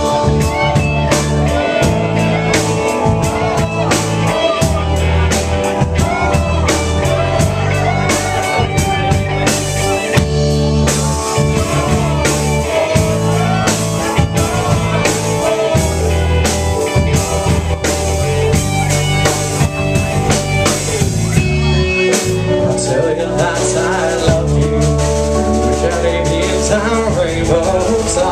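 Live rock band playing an instrumental break of guitar and drum kit with a steady beat.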